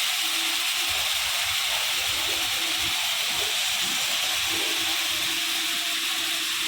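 High-pressure water jets of a touch-free automatic car wash spraying on the car: a steady, even hiss.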